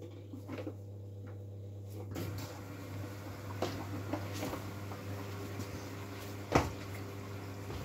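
Miele W433S front-loading washing machine running early in its wash cycle: a steady low hum with scattered short knocks. The noise rises about two seconds in, and the loudest knock comes about six and a half seconds in.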